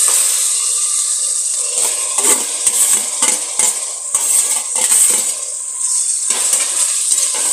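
Onions and green chillies sizzling in hot oil in an aluminium pressure cooker. Scattered scrapes and clinks of a spatula and a steel bowl against the cooker as chopped tomatoes are tipped in.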